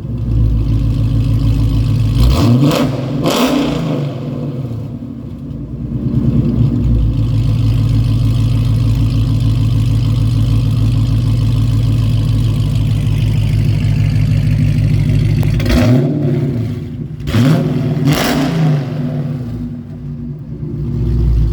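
Cammed 5.7L Hemi V8 of a 2009 Dodge Challenger R/T through long-tube headers and a loud exhaust, idling warm and blipped twice about three seconds in, then held steady, then blipped two or three more times near the end.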